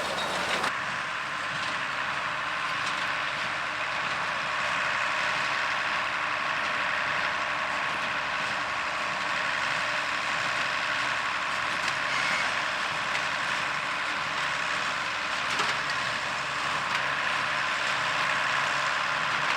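Allis-Chalmers 200 tractor's diesel engine running steadily under load while it pulls a New Holland 273 square baler that is baling hay.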